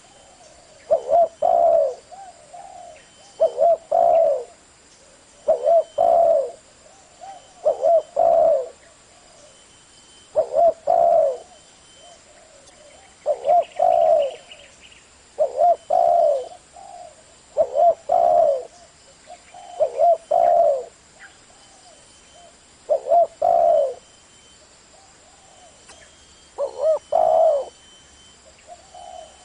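Spotted dove cooing: a short phrase of a few low coos, repeated about every two seconds, a dozen times over.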